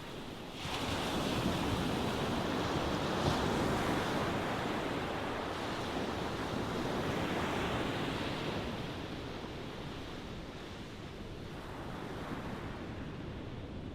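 Ocean waves breaking on a shore: a wave surges in about half a second in, rushes loudly for several seconds, then slowly washes back and fades into softer surf.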